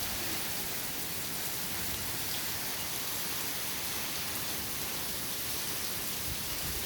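Monsoon rain pouring steadily, an even hiss of rain falling without a break.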